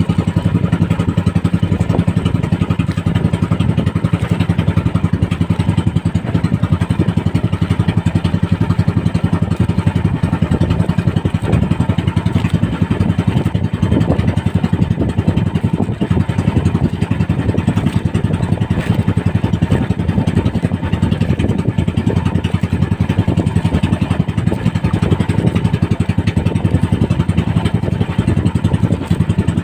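Small engine of a motorized fishing boat running steadily at a constant speed, a continuous drone with no change in pitch.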